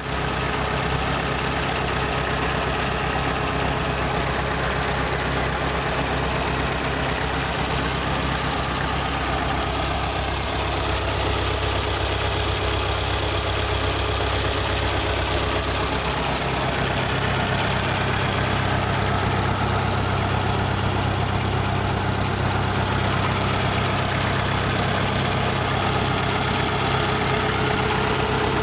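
Zanello tractor's diesel engine running steadily, with its note shifting slightly to a new steady speed a little past halfway through.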